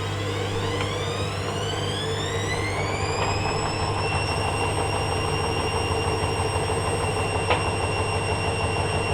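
Hoover Dynamic Next washing machine's drum motor speeding up into a spin: a whine rises in pitch for about four seconds, then holds steady at speed over a low hum. A single sharp tick comes near the end.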